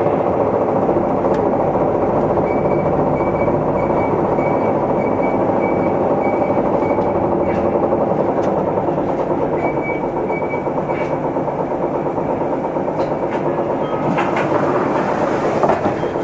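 Isuzu Erga Mio city bus heard from inside while running, with steady diesel engine and road noise and occasional rattles. A high beeping tone repeats about three times a second for several seconds, twice.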